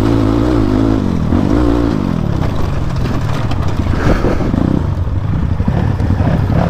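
Motorcycle engine revving in third gear, its pitch rising and falling for the first couple of seconds, then giving way to a rough, uneven rattling clatter as the bike rides over broken off-road ground.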